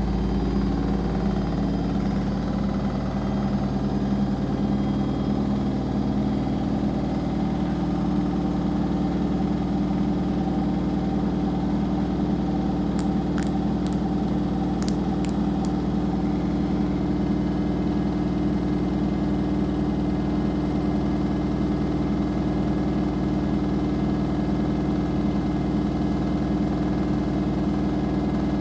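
Washing machine running, its drum motor giving a steady hum. A few faint high ticks come about halfway through.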